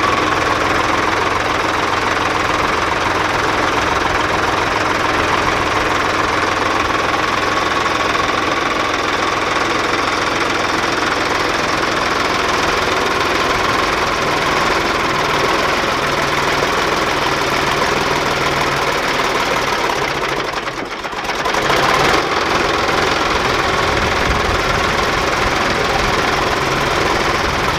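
Sonalika DI 50 tractor's diesel engine running steadily, with a brief drop in level about three-quarters of the way in.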